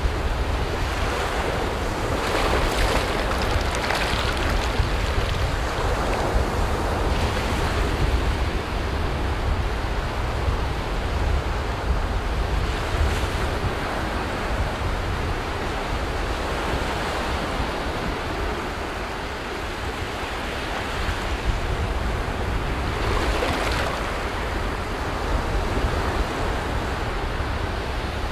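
Sea waves breaking on a beach: a continuous wash of surf that swells and falls several times. Underneath it a low rumble of wind buffeting the microphone.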